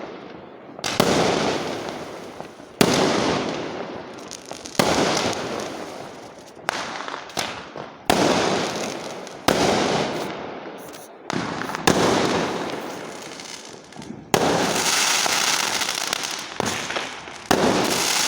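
Fireworks going off: a run of sharp bangs, one every two seconds or so, each followed by a noisy tail that fades away before the next.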